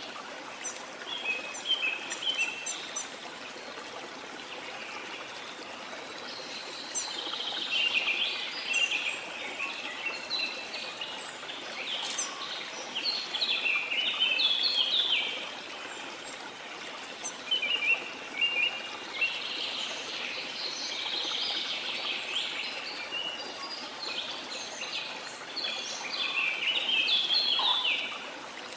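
Tropical rainforest birds singing in bouts of quick chirps and trills over the steady rush of a waterfall, the bird chorus swelling and fading several times.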